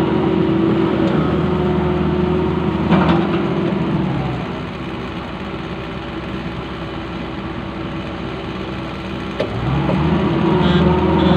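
Long-arm excavator's diesel engine running, easing off about four seconds in and working harder again near the end, with a couple of short knocks.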